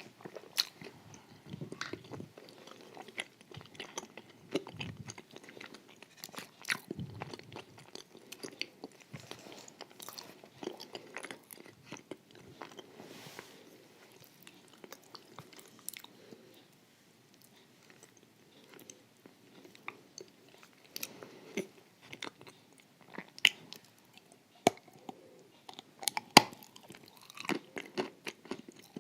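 A person chewing and biting a creamy, crunchy dessert, with many short crunching clicks and mouth sounds; a quieter stretch in the middle, and sharper, louder crunches near the end.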